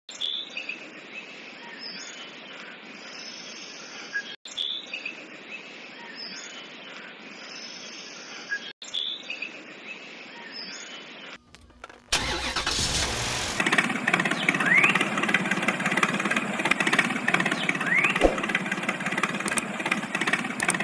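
Engine sound: a short engine clip plays three times over, then at about twelve seconds a louder engine starts running steadily.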